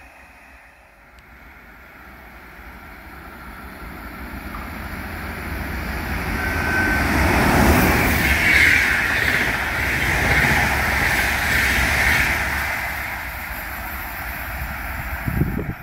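Flixtrain passenger train, an electric locomotive hauling coaches, passing on the near track: the rumble and wheel-on-rail noise builds steadily, peaks as the locomotive and coaches go by, then fades as the train draws away.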